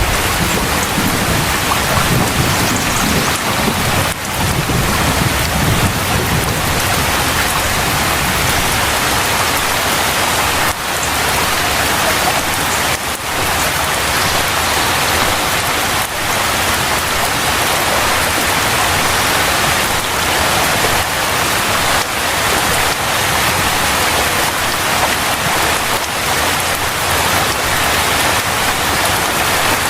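Heavy rain pouring steadily. A low thunder rumble underneath fades out after the first several seconds.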